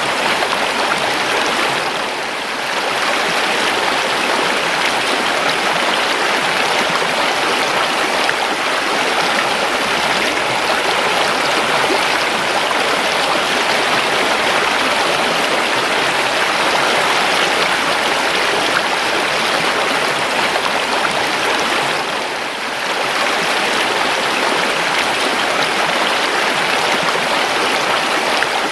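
Steady rushing and babbling of a flowing river, dipping briefly in loudness twice.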